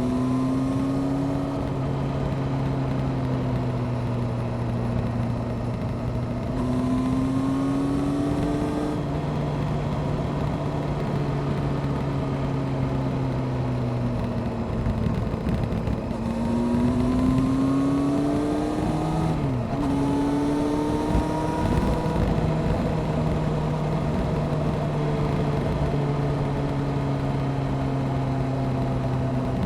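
Honda CBR600F Sport's inline-four engine through an aftermarket Delkevic exhaust, running under way at mostly steady revs. The revs rise several times as the bike accelerates, with a quick drop and recovery about two-thirds of the way through, like a gearshift. There is a constant rush of noise underneath.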